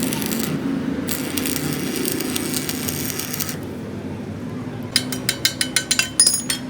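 Metal parts clinking: a quick run of about a dozen light metallic clicks with a bright ring near the end, after a few seconds of hissing scrape, over a steady low hum.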